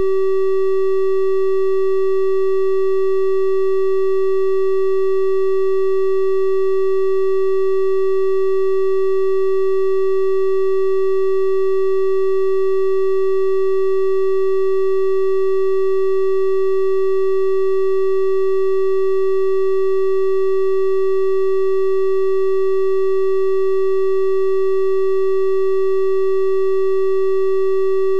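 A steady 384 Hz triangle-wave test tone, a pure electronic hum with faint, evenly spaced overtones above it, holding one pitch and level throughout.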